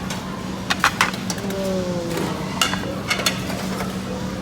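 Serving utensils and dishes clinking at a buffet, a few sharp clinks about a second in and again near three seconds. Underneath is steady restaurant background noise with a low hum.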